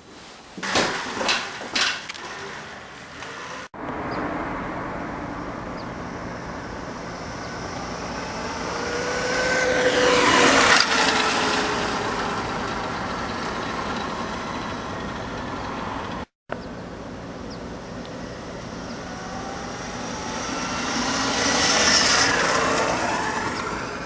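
A few clicks and knocks, then a Zero S electric motorcycle passing by twice. Each pass is a swell of tyre and wind noise with the motor's whine, sliding down in pitch as it goes by.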